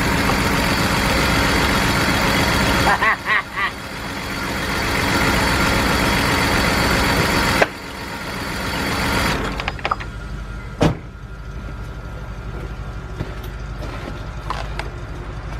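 BMW 328i engine idling rough with a misfire, still there after the cylinder 3 and 4 ignition coils were swapped. The running is loud for the first half, broken by a sharp click about halfway, then quieter with a few light clicks.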